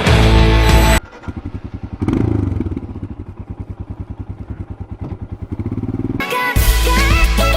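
Royal Enfield Himalayan's single-cylinder engine running with an even beat of exhaust pulses, about eight a second. It swells briefly about two seconds in, then eases back. Music plays for the first second and comes back in near the end.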